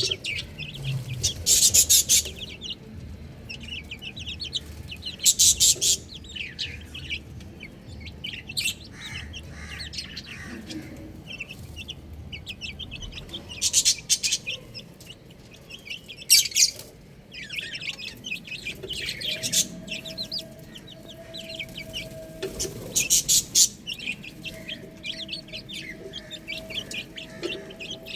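Domestic chicks chirping: many rapid, high-pitched peeps that swell into louder bursts every few seconds.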